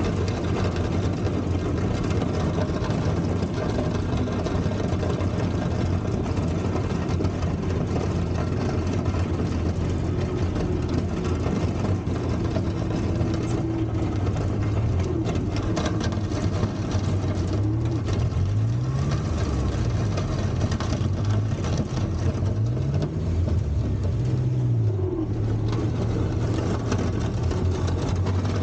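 Volvo four-cylinder gasoline engine of a 1960s Kalmar baggage tractor running steadily. Its speed swings up and down several times in the second half.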